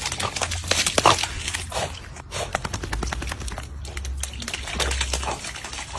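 Dog splashing and pawing in a shallow rain puddle: a rapid, irregular run of sharp splashes and slaps of water, loudest about a second in, over a low rumble.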